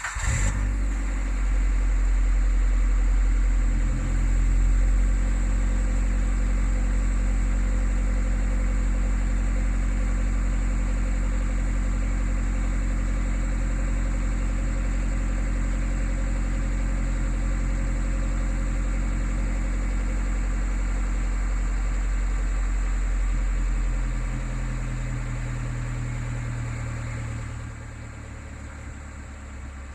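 Suzuki Jimny JB74's 1.5-litre four-cylinder petrol engine, breathing through a Fujitsubo aftermarket exhaust, catching on a cold start and running at a fast idle. The engine note drops about 24 seconds in and again a few seconds later as the cold-start idle settles lower.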